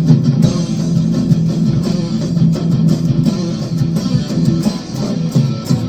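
Loud electric guitar with a heavy fuzz distortion playing continuously.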